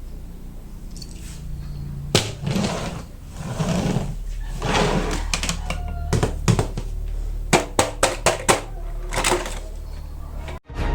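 Hands handling toy car packaging: rustling plastic and cardboard, then a quick run of sharp clicks and knocks, cutting off suddenly near the end.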